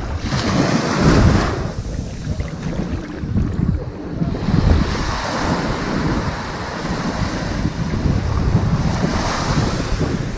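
Ocean waves breaking and washing up onto a sandy beach, three surges that swell and fade over a steady low rumble of surf.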